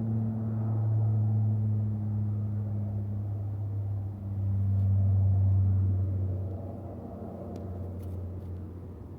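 Lockheed C-130 Hercules turboprops departing with a loud buzzing propeller drone made of steady low tones. It swells twice, dips slightly in pitch, and fades after about six seconds as the aircraft moves away.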